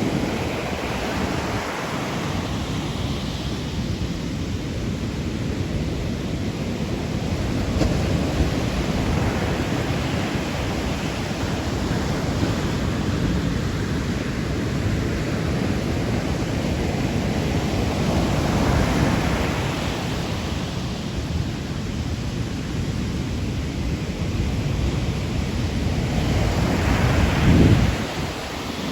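Ocean waves at night surging and breaking in slow swells about every nine seconds over a steady low wash of surf, with the strongest break near the end.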